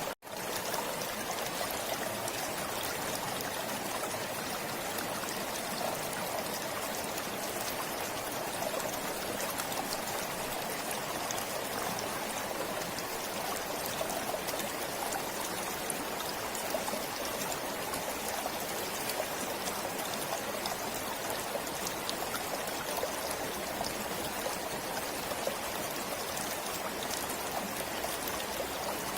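Forest stream flowing steadily, an even sound of running water that drops out for an instant at the very start.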